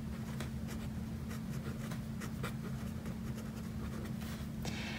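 Pen writing on lined notebook paper: a run of short, faint scratching strokes as words are written out by hand, over a faint steady hum.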